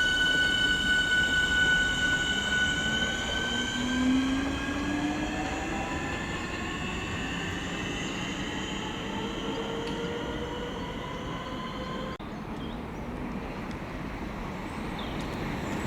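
Electric train's traction motors whining, a set of tones that falls steadily in pitch as the train slows, over the rumble of the train running on the rails.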